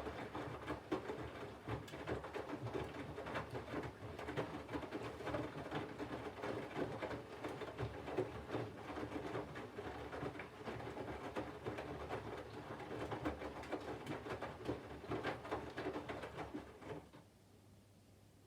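Candy GVF4 front-loading washing machine tumbling wet laundry during its water-heating phase: a steady motor hum with water and clothes sloshing in the drum, which stops abruptly near the end as the drum pauses.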